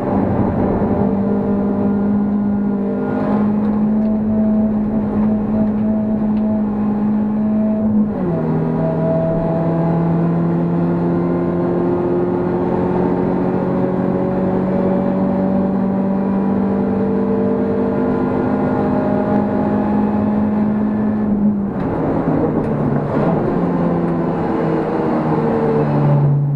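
BMW E36 318ti Compact's decatted 1.9-litre M44 four-cylinder engine under hard acceleration, heard from inside the cabin. The revs climb, drop sharply about eight seconds in as if on an upshift, then climb slowly for a long pull. A little past twenty seconds they fall and step down through several changes.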